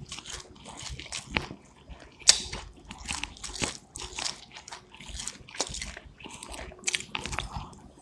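Black sesame seeds being chewed, an irregular run of short crunches with a sharp, loud one about two seconds in.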